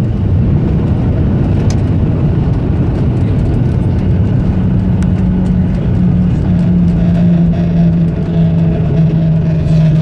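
Loud rumble of a jet airliner heard from inside the cabin. About four seconds in, a steady low hum with a couple of fainter higher tones sets in and holds.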